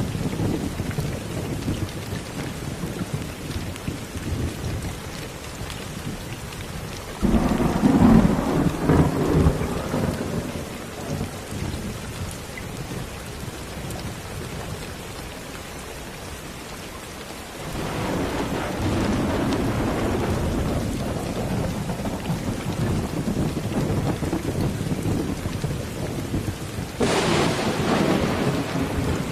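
Steady rain falling, with thunder three times: a sudden rumble about seven seconds in, another swelling up near eighteen seconds, and a sharper clap near the end.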